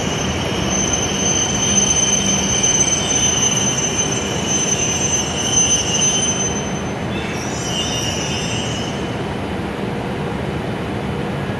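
E7 series Shinkansen train pulling into the platform and braking to a stop: a rumble under a steady high-pitched squeal. The squeal fades out about seven seconds in, as the train halts.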